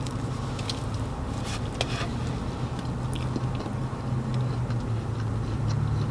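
Biting into and chewing a soft crumb donut close to the microphone, with scattered short wet mouth clicks over a steady low hum.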